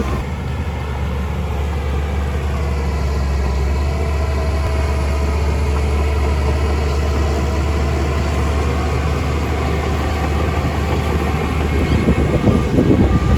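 Heavy diesel engine of a large earthmoving machine running steadily with a deep drone, turning louder and rougher briefly near the end.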